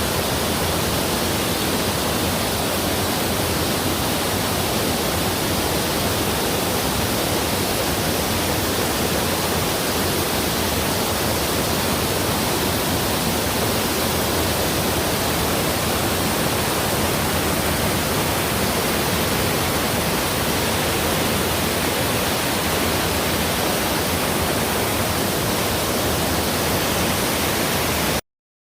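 Waterfall, a steady rush of falling water that cuts off suddenly near the end.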